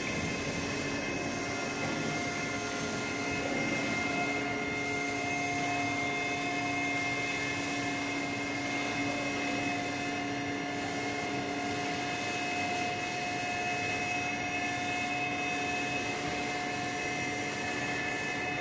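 Steady drone of factory machinery: an even, noisy hum with several constant whining tones held throughout.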